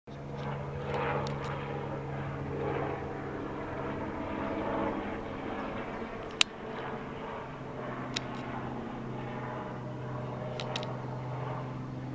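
Steady engine drone of an aircraft, with a few sharp clicks, the loudest about six seconds in.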